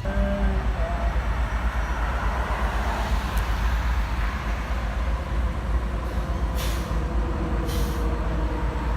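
A freight train running by with a steady low rumble. The horn's last note dies away in the first half second, and there are two short hisses about seven and eight seconds in.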